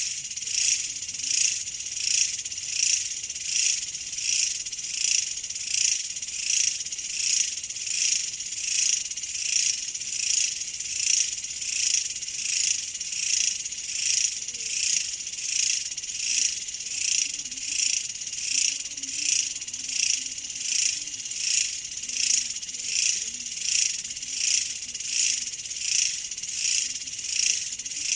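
Chorus of insects trilling high-pitched, swelling and fading in a steady rhythm about one and a half times a second.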